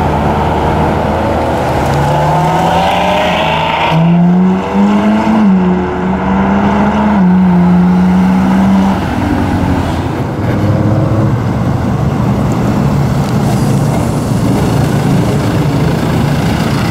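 A supercar engine accelerating hard. Its pitch climbs and drops back at each upshift, several times in the first half. After that comes a lower, rougher, steady engine rumble.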